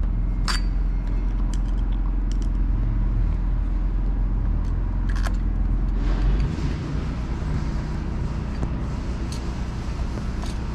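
Steady low mechanical hum that drops in level about two-thirds of the way through, with a few light clicks of small metal parts, screws and clamps, being handled during carburetor reassembly.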